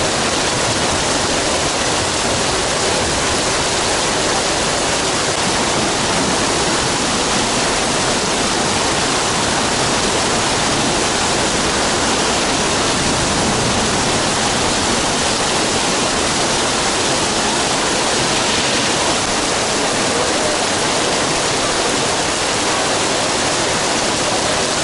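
Heavy downpour: rain pouring onto wet paving stones and awnings in a steady, loud hiss.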